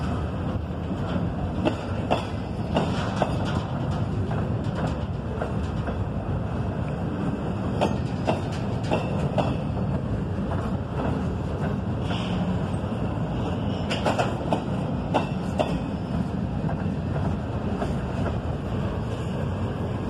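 Double-stack intermodal well cars of a freight train rolling past: a steady rumble of wheels on rail, with scattered sharp clicks and clanks as the wheels cross the rail joints.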